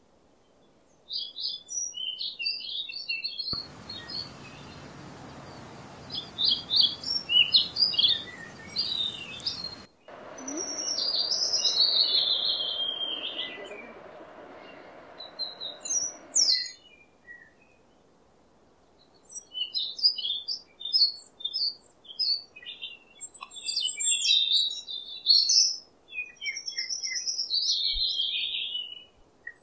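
Small birds chirping and twittering in quick high-pitched bursts, with a steady background hiss through the middle stretch.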